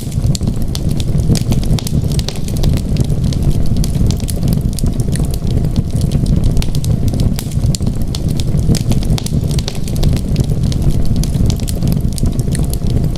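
Wood fire crackling in a fireplace, with many small irregular pops and snaps over a steady low rumble.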